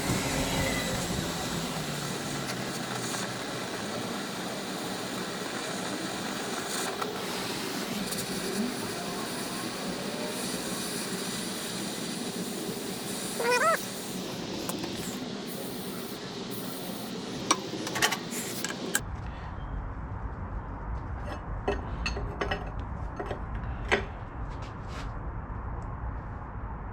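Handheld torch hissing steadily as it heats a rusted, seized bolt, then shut off abruptly about two-thirds of the way through. Sharp clicks and knocks follow as a wrench works the bolt loose.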